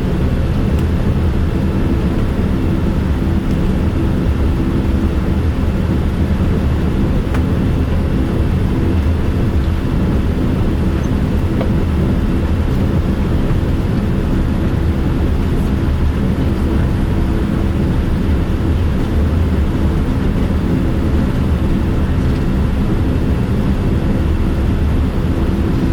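Steady cabin noise inside a Boeing 787-9: a low rumble with a few steady hums, unchanging throughout.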